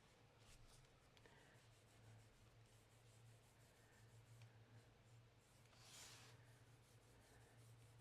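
Very faint rubbing and dabbing of a wool dauber spreading dye on leather, with a short swell of soft scuffing about six seconds in and a low steady hum beneath; near silence overall.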